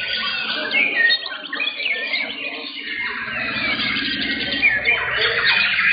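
Several white-rumped shamas (murai batu) singing at once in competition, a dense tangle of fast overlapping whistles, trills and chirps.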